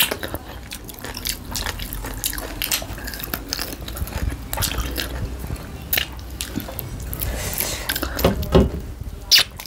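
Wet chewing and lip-smacking of people eating pork with their fingers: a dense string of short, moist smacks and clicks, with a few louder ones near the end.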